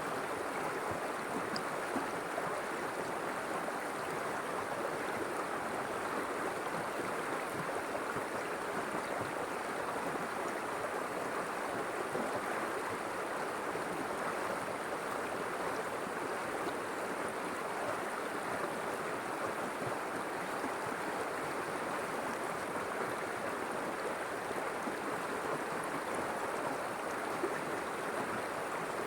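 River water flowing steadily, an even rushing sound with no change in level.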